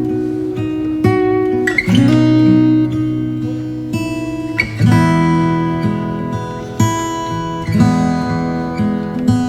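Acoustic guitar music: strummed chords that change about once a second, with short fret-slide squeaks between some of them.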